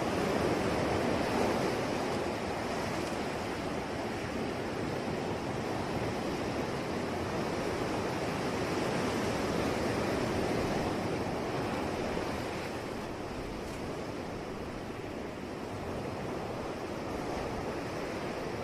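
Ocean waves washing onto a shore: a steady rushing surf that swells and eases slowly, a little louder in the first couple of seconds and around ten seconds in.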